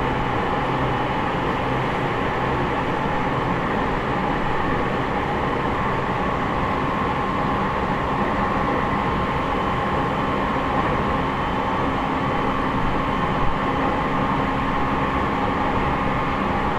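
Inside a JR East E501 series electric train's motor car (MoHa E501-8) running between stations: a steady rumble of wheels on rail and running gear, with a few faint steady tones over it.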